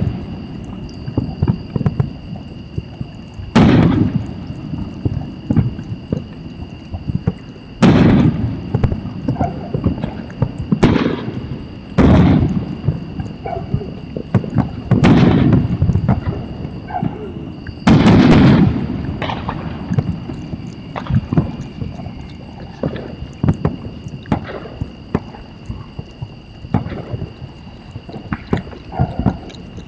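Fireworks going off: about half a dozen loud bangs a few seconds apart, the longest and loudest about 18 seconds in, with many smaller pops and crackles in between.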